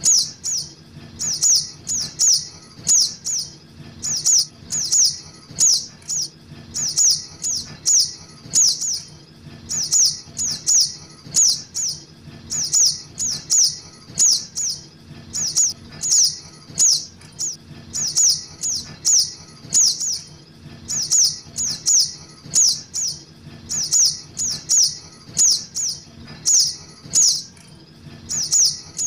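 Calls of a juvenile sogok ontong (spiderhunter), played as a bird-trapping lure: sharp high chirps, each falling in pitch, in quick clusters of two to four that repeat about every second without a break.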